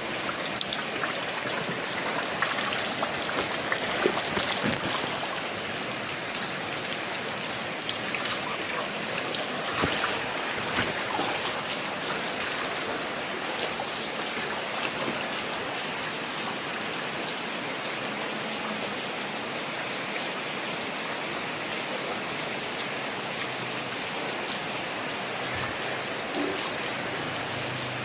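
Rain falling steadily, with many individual drops splattering close by. The drops are thicker in the first ten seconds or so.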